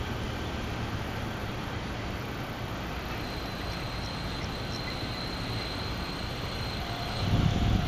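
Ohmi Railway 220-series electric railcar shunting hopper wagons in the station yard: a steady low rumble of the train, with a thin high steady tone in the middle. The rumble grows louder about seven seconds in as the train draws nearer.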